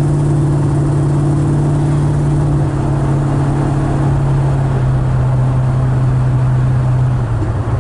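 Cabin drone of the El Camino's fuel-injected crate engine through its FlowMaster mufflers, heard with the window up while cruising at a steady pitch. The drone drops away near the end as the car slows.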